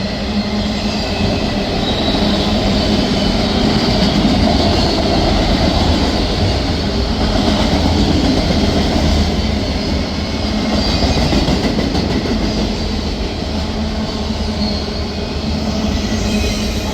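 Freight train of empty autorack cars rolling past close by: a steady loud rumble of wheels on rail, with faint high steady tones from the wheels.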